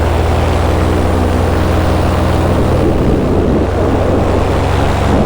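Paramotor engine and propeller running steadily in flight, a constant drone.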